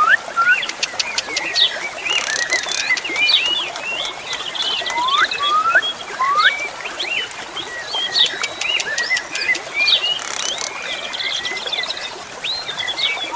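Asian pied starling (jalak suren) singing a busy, varied song of quick rising and falling whistles, rapid runs of clicks and short buzzy rattles, without a pause.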